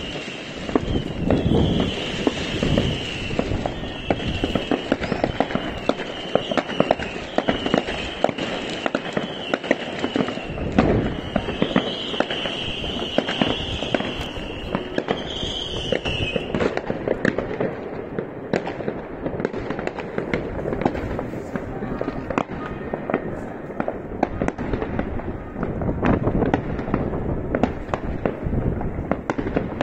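New Year's Eve fireworks and firecrackers going off all around, a continuous run of overlapping bangs and crackles. A high, repeating warbling tone sounds over them until about sixteen seconds in, then stops.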